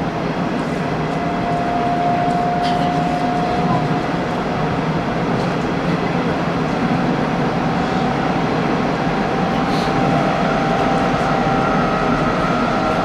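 Hanshin Railway electric local train running between stations, heard from inside the car: a steady rumble of wheels on rail with a thin electric motor whine, and a second, higher whine joining near the end.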